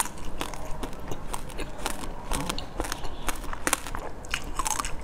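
Close-miked chewing of a crunchy bite of food: a run of irregular crisp crunches and crackles.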